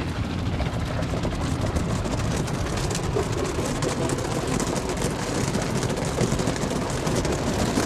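Automatic car wash spraying water onto the car, heard from inside the cabin: a steady rush and patter of water on the body and glass over a low machine rumble, with the spray growing denser about three seconds in.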